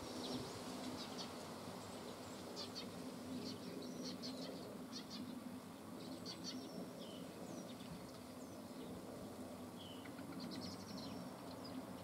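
Wild birds giving short, high chirps on and off over a faint, steady low background hum.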